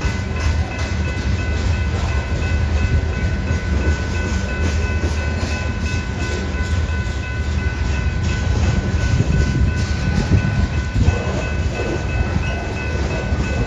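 Long grain train of covered hopper cars rolling past: a steady heavy rumble with repeated wheel clicks over the rail joints, and faint steady high-pitched tones throughout.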